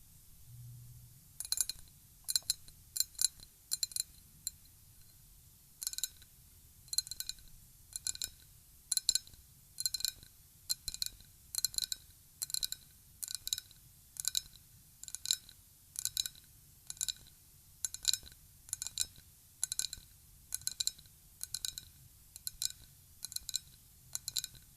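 Ryukyu glass being tapped over and over, each tap a clear clink with a short bright ring. A quick irregular flurry of taps, a pause of about two seconds, then a fairly steady run of about two taps a second.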